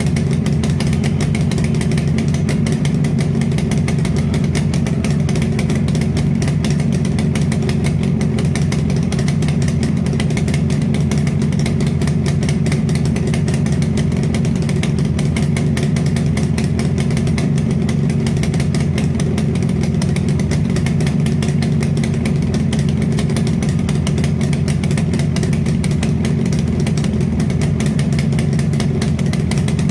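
Motorcycle engine idling steadily through its exhaust, with an even, rapid pulse and no revving.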